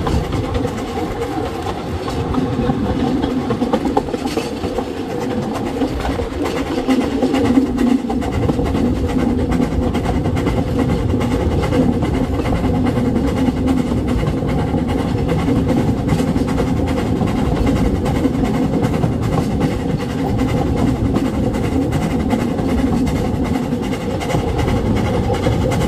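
Narrow gauge train running steadily, heard from an open carriage just behind the locomotive: a continuous rumble of the wheels on the rails with the locomotive working ahead.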